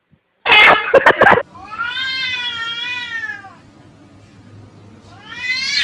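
Domestic cat meowing: a loud, harsh call about half a second in, then one long meow that wavers in pitch, and another rising meow near the end.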